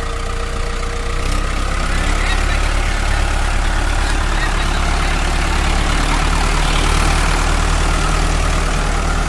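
Diesel tractor engine running steadily with a low rumble, getting louder about a second in and holding there.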